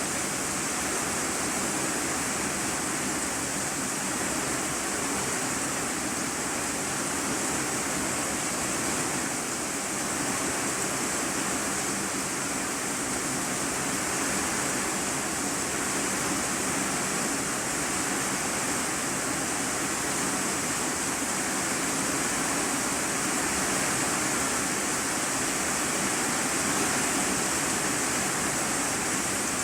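Rain falling on an iron-sheet roof, heard from the room beneath: a steady, even hiss with no let-up.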